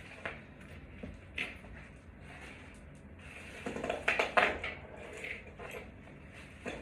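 Small hard parts and hardware clinking and clattering as they are handled and sorted, with scattered clicks and a louder cluster of knocks about four seconds in.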